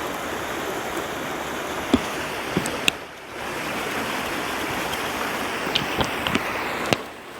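Steady rush of a flowing river, with a few sharp clicks and knocks scattered through it; the sound dips briefly twice.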